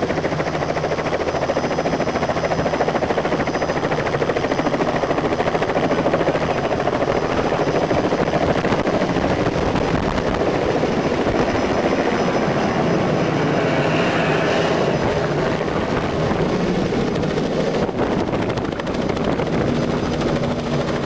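Robinson R66 turbine helicopter running steadily, its rotor and turbine making a continuous, even noise.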